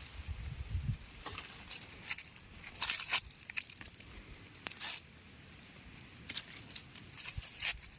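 Irregular rustling and crackling, a few separate bursts with the loudest about three seconds in and another near the end, with some low thumps in the first second.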